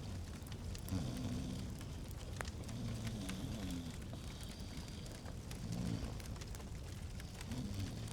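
Log fire crackling in a fireplace: scattered sharp pops and ticks over a steady low rumble, with short low tones coming and going every second or two.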